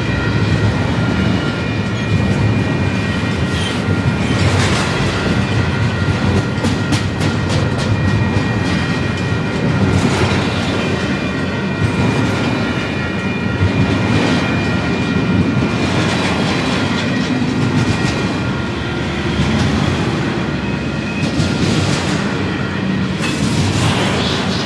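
Union Pacific double-stack container cars rolling past, a steady loud rumble with repeated clatter of steel wheels over the rail joints.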